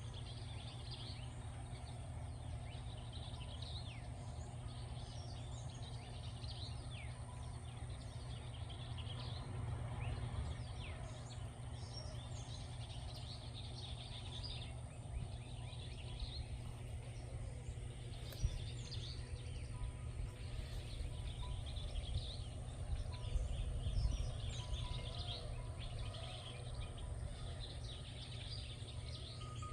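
Several birds chirping and calling, short high calls overlapping throughout, over a steady low rumble.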